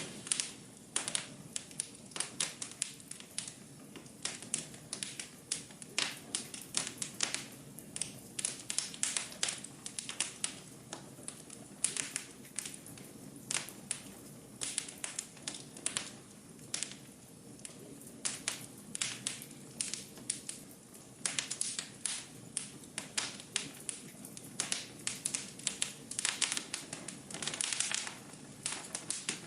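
Wood fire burning in a fireplace: irregular crackles and sharp pops, often in quick clusters, over a soft steady rumble of flame.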